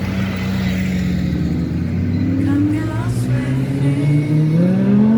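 Car engine running steadily under light load, then revving up and accelerating, its pitch rising from about four seconds in.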